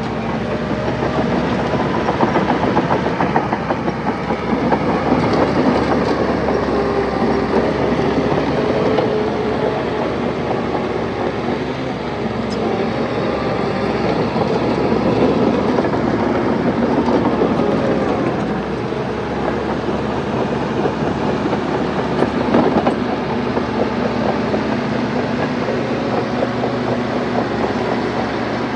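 Crawler bulldozer's diesel engine working under load, its pitch rising and falling a little, with a continuous metallic clatter from its steel tracks.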